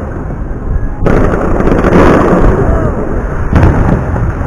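Fireworks bursting overhead in a rapid barrage of bangs with a continuous rumble, jumping suddenly louder about a second in.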